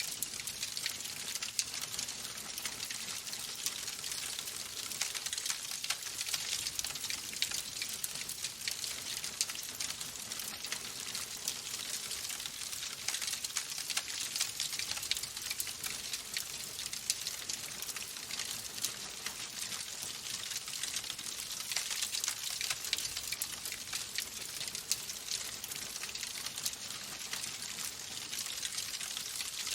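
Wood fire in a fireplace crackling: a steady high hiss full of many small pops and snaps.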